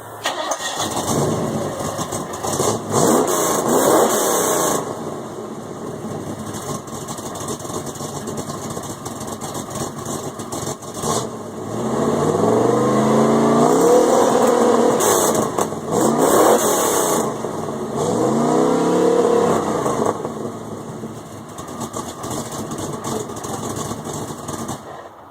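Carbureted GM crate 350 small-block V8 in a 1992 Camaro RS, running through a Cherry Bomb glasspack, revved from idle. There are a few quick blips early, then three long revs that rise and fall, with the exhaust still a little leaky.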